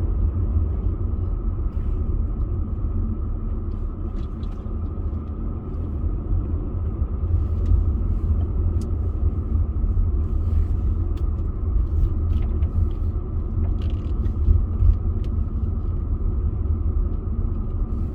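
Steady low rumble of a car driving, engine and road noise, with a few faint ticks scattered through it.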